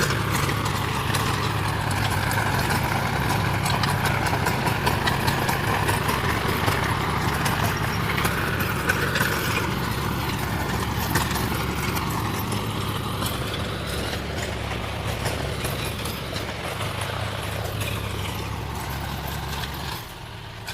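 John Deere 5050 D tractor's three-cylinder diesel engine running steadily, growing gradually quieter in the second half and dropping off sharply near the end.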